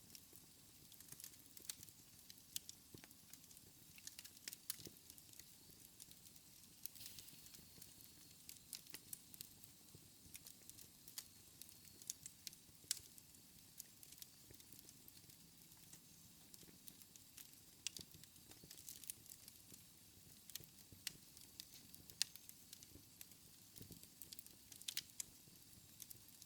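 Wood fire in a fireplace crackling faintly: irregular sharp pops and snaps over a soft, steady low hiss.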